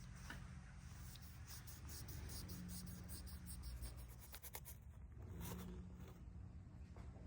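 Faint scratchy rubbing and light clicks from small parts being handled, over a low steady hum.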